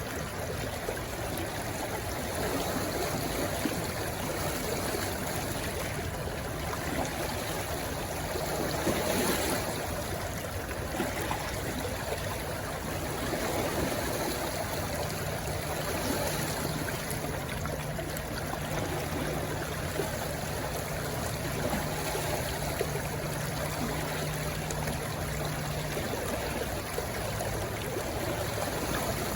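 Stream of water rushing and trickling steadily where it runs into the sea, with small swells in the flow.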